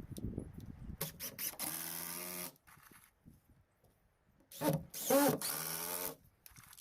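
Power drill running in two bursts of about a second and a half each, driving screws into the decking timber.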